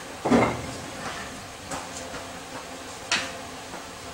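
A heavy clunk near the start, then a few light knocks and a sharp click about three seconds in, as support blocks are shifted under a vehicle.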